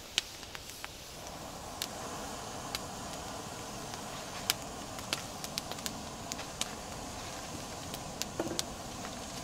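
Gas camping-stove burner running with a steady rushing hiss inside its windscreen, growing louder about a second in. A wood fire crackles alongside with scattered sharp snaps.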